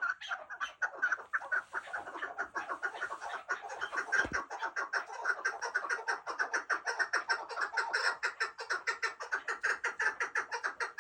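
White chukar partridge calling: a fast, unbroken series of short clucking 'chuck' notes, several a second. A brief low thump a little over four seconds in.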